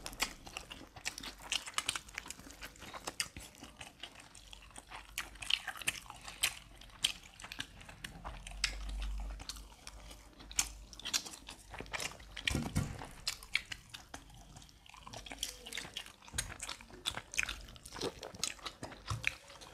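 Close-miked chewing and biting of barbecued chicken and rice: a dense, irregular run of small crunchy clicks and mouth sounds.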